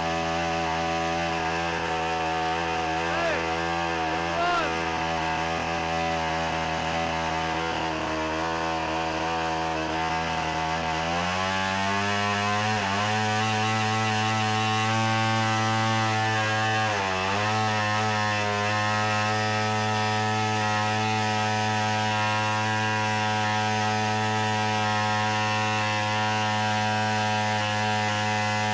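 Gas engine of a large-scale RC biplane running steadily, then speeding up about eleven seconds in and holding the higher speed, with a brief dip in revs a few seconds later.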